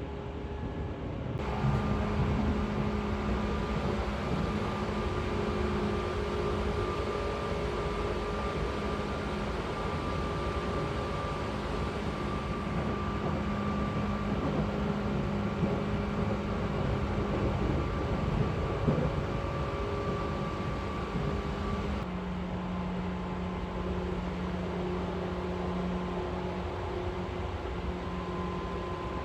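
Seibu 4000 series electric train running along the line: a steady rumble of wheels on track, with a constant mechanical whine from the drive. It grows louder about a second and a half in, and the whine drops a little in pitch about 22 seconds in.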